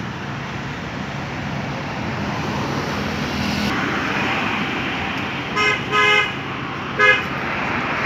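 Steady road traffic noise, with a vehicle horn honking three times in the second half: a short toot, a slightly longer one, then another short toot.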